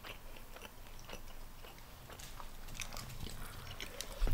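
Close-miked chewing: soft, wet mouth clicks and smacks of someone eating. A low bump comes just before the end.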